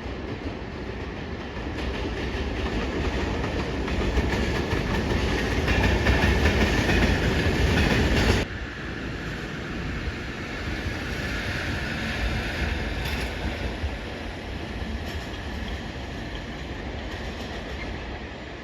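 Train running on rails with wheel clatter; the noise builds for about eight seconds, then drops suddenly and carries on steadier and quieter.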